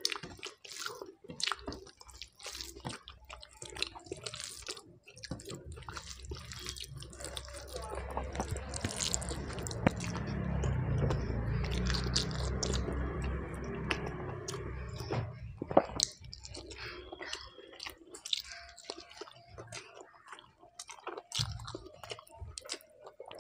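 Close-miked chewing and wet mouth clicks of someone eating rice and fish curry by hand. A low rumble swells up in the middle for several seconds and fades.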